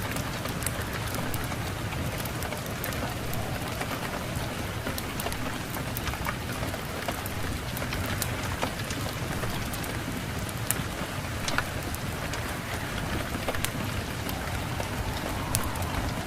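Steady rain, with sharp clicks and pops scattered irregularly through it.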